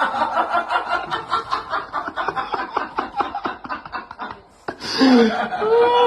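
A person laughing in a long run of quick breathy bursts, then a short voiced sound whose pitch slides up and down near the end.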